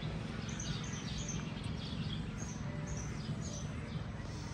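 Birds chirping in many short, high notes over a steady low background rumble.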